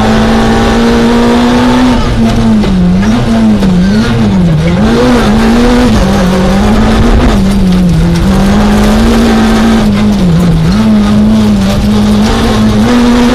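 Citroën Saxo A6 rally car's four-cylinder engine, heard from inside the cabin, pulling hard. After about two seconds the revs start swinging up and down quickly as it lifts and changes down through a run of tight bends, then they settle to a steadier pull near the end.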